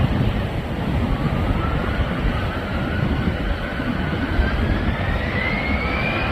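Jet airliner's engines during a takeoff: a steady low rumble, with a thin whine that climbs in pitch from about a second in.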